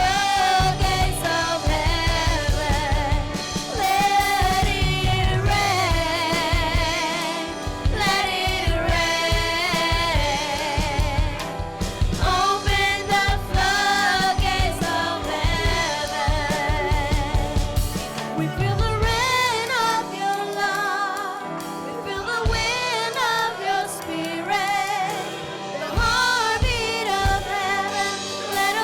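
Live worship band with singers performing a gospel worship song, voices held with vibrato over a steady drum beat; the low beat drops away for a few seconds about two-thirds of the way through, then returns.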